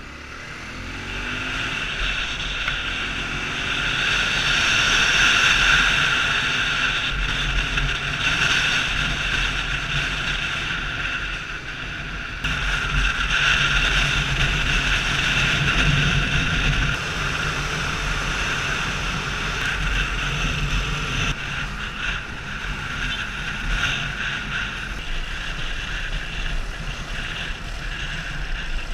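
Motorcycle engine running as the bike is ridden, a low rumble under a steady high whine with road and wind noise; the engine note rises in the first second as it pulls away.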